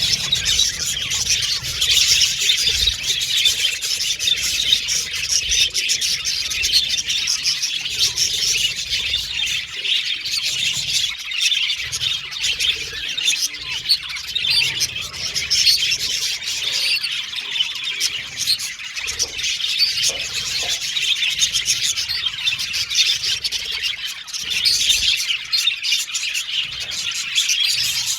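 Several budgerigars (budgies) chattering and warbling continuously, with many high chirps overlapping and no pauses.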